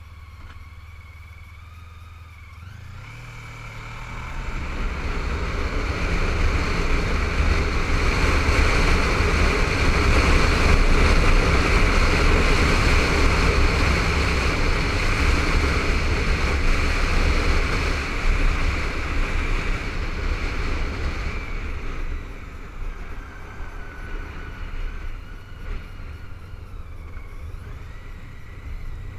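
Honda ST1300 motorcycle's V4 engine and wind rushing over a helmet-mounted camera as the bike picks up speed. The rush builds a few seconds in, holds loud for a stretch, then eases off as the bike slows.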